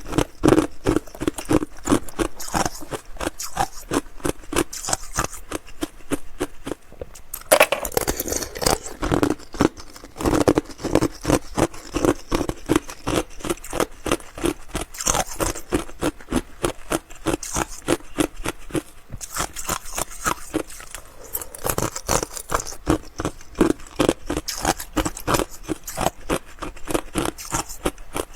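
Close-miked crunching of ice being bitten and chewed, a continuous run of crisp cracks and crunches, with a louder bite about seven and a half seconds in.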